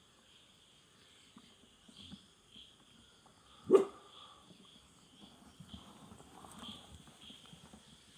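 A dog barks once, sharply and briefly, about four seconds in, over insects chirping steadily in pulses.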